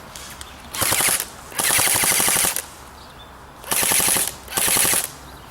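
Airsoft rifle firing on full auto in four short bursts of rapid, evenly spaced shots, the second burst the longest.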